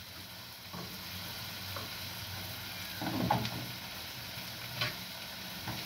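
Sausage pieces frying in a pan, a steady sizzle, with a few light knocks and clicks from kitchen utensils, the loudest about three seconds in.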